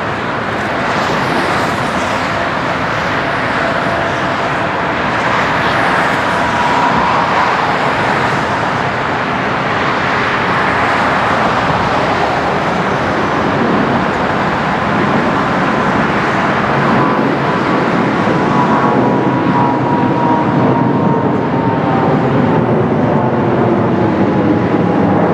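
Jet engine noise from a Lufthansa Airbus A340-300's four CFM56 turbofans, a steady loud rush that slowly grows louder, with a faint engine whine that glides gently down in pitch in the second half.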